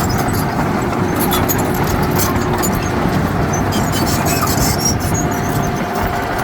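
Heavy diesel earthmoving machine running steadily under work, with scattered short high-pitched squeaks and clicks over the engine noise.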